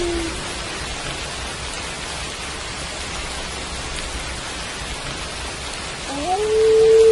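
Steady rain. A wolf howl trails off, falling in pitch, right at the start, and a new howl rises in pitch and then holds from about six seconds in.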